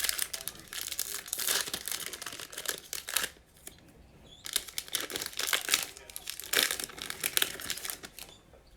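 Plastic trading card pack wrappers being torn open and crinkled by hand, in two spells of crackling with a short pause between.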